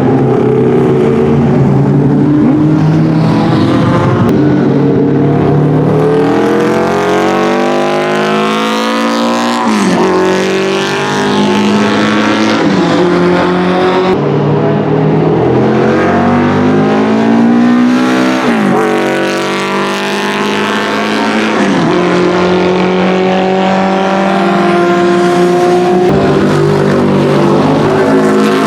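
Porsche 904 GTS's 2-litre four-cylinder boxer racing engine accelerating hard, its pitch climbing and then dropping sharply with each gear change, about three times.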